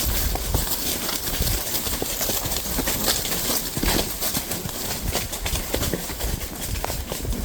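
Horse hooves clip-clopping: a run of irregular knocks over a low rumble.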